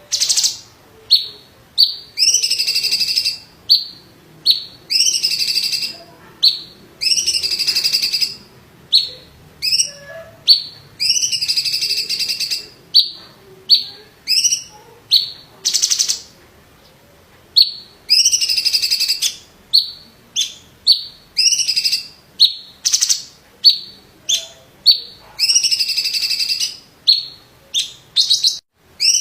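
A green leafbird (cucak ijo) singing hard and continuously: loud, high phrases of short sharp notes alternating with longer buzzy, rattling trills, each a second or so long, with a brief pause about halfway through.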